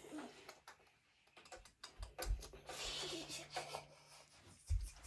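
Faint scattered clicks, taps and knocks of plastic toys being handled, with a brief rustle in the middle and a dull knock near the end.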